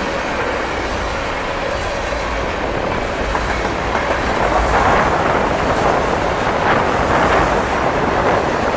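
CSX freight train's cars rolling past steadily, wheels clattering on the rails, a little louder in the second half.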